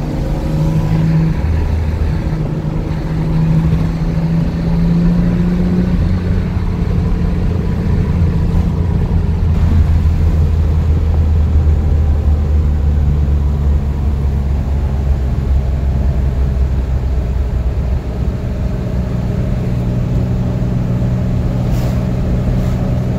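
1963 Corvair Monza Spyder's turbocharged air-cooled flat-six running under way, heard from inside the cabin. The engine note climbs over the first few seconds, settles into a deeper steady drone, then dips briefly about eighteen seconds in before picking up again.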